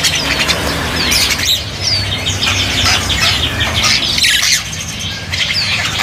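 Many caged birds chirping and squawking, with short high falling whistles among them, over wings flapping and fluttering as a jalak kebo (Javan myna) is caught by hand in its cage.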